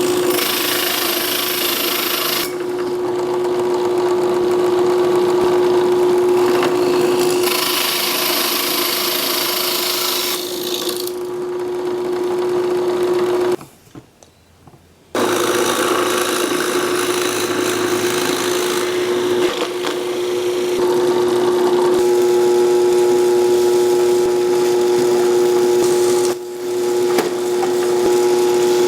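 Power tool motor running with a steady whine, with stretches of harsher high-pitched noise as it works the metal rod. It stops for about a second and a half just after halfway, then runs again.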